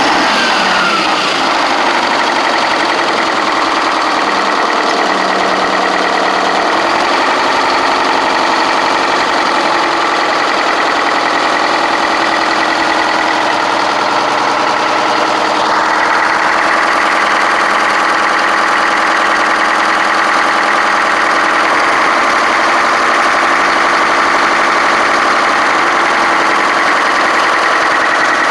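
A car crusher's 1984 Detroit Diesel engine idling steadily just after a cold start, its throttle held open a tiny bit. Its tone shifts slightly about halfway through.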